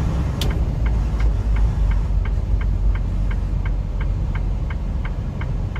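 Semi truck's diesel engine running low and steady, heard inside the cab, with the turn-signal relay clicking about three times a second.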